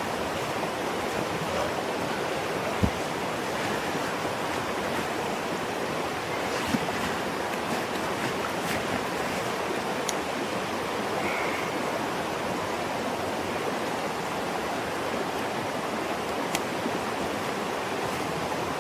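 Creek water rushing steadily over rocks, with a few brief knocks scattered through it.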